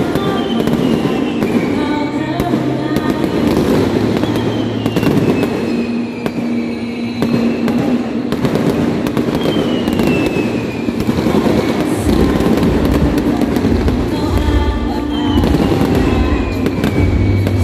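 Fireworks display: dense crackling and popping bursts, with several long whistles that fall in pitch, over background music. From about twelve seconds in, heavier low booms join the crackle.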